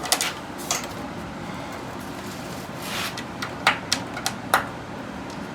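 A few sharp clicks and knocks of the vent fan's parts being handled while a screw is lined up and started into the housing, over a low steady hum.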